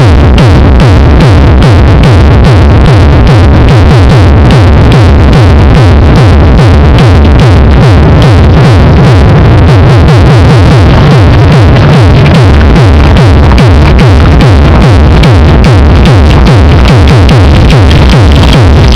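Electronic dance music with a fast, steady beat and heavy bass, played very loud through a competition car sound system.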